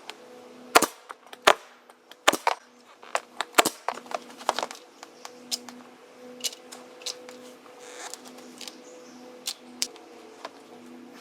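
Pneumatic air stapler firing a string of sharp shots into wood, the loudest ones in the first four seconds and fainter ones after, over a steady low hum.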